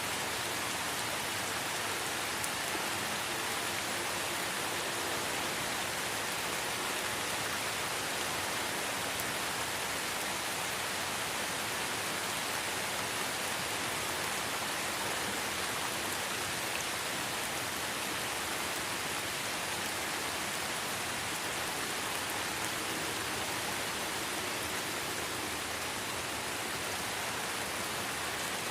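Light rain falling steadily in a forest, an even hiss of many small drops with no single drop standing out.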